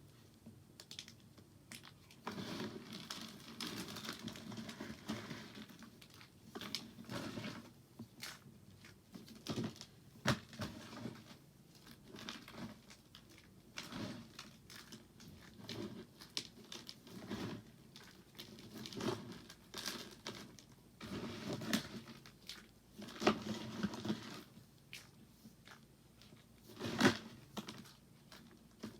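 Soap crunching and crackling as it is worked, in irregular stretches of crumbly noise broken by sharp clicks.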